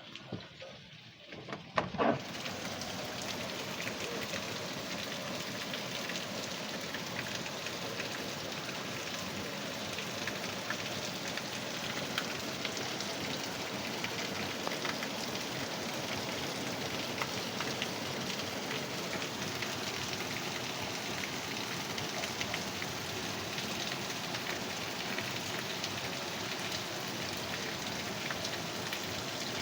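Heavy downpour pattering steadily on surfaces, as a dense hiss scattered with drop ticks. It rises suddenly about two seconds in, right after a couple of sharp knocks.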